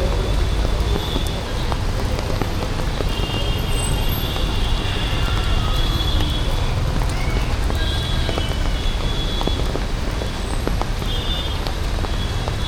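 Rainy city street ambience: a steady rumble of road traffic over an even hiss of rain, with faint high-pitched snatches coming and going.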